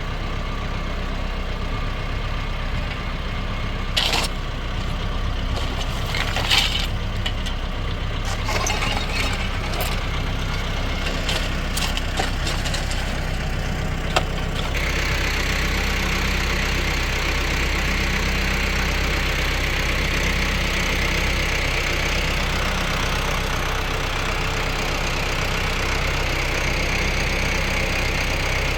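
Tractor engine running steadily, with scattered knocks and clatter in the first half. About halfway through, the engine note gets heavier and louder and stays steady.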